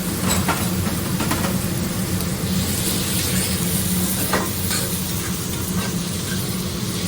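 Onions, garlic, dried fruit, olives and sliced almonds sizzling in a hot frying pan as they are stirred, with a few light clicks of the utensil against the pan, over a steady low hum.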